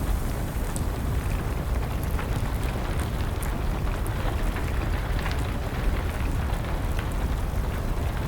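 Wood fire crackling with scattered sharp pops over a steady, dense rush of rain.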